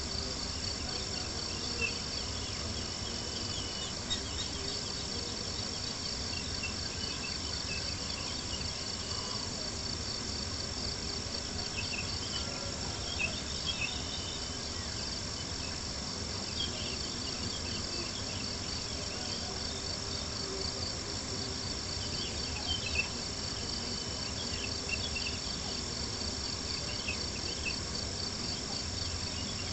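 Crickets chirping steadily in a dense high-pitched chorus, with a campfire's scattered small crackles and pops.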